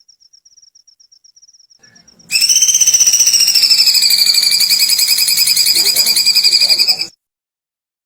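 A bird's fast, high, pulsing trill, the call known as 'kikikan kunti' for its likeness to a kuntilanak ghost's giggle. It starts faintly, comes in loud about two seconds in, dips slightly in pitch, and cuts off abruptly about seven seconds in.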